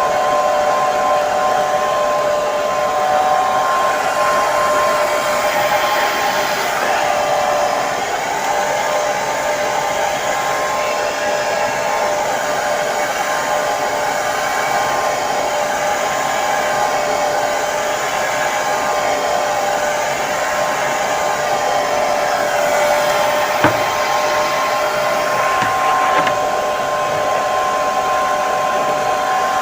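Hair dryer running steadily: a constant rush of blown air with a steady motor whine over it, the whine a little weaker for a while midway, and one brief click near the end.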